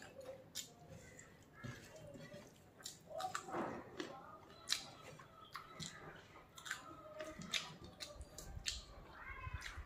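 Close-miked eating sounds: a person chewing rice and chicken liver, with scattered wet mouth clicks and lip smacks.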